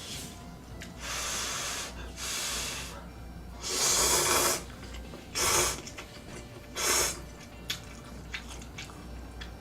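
A person's breathy mouth sounds while eating: five short rushes of air, the longest about a second, followed by a few light clicks.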